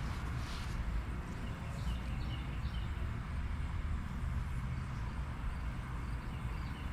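Outdoor garden ambience: a steady low rumble under a faint hiss, with a few short, faint high chirps about two seconds in.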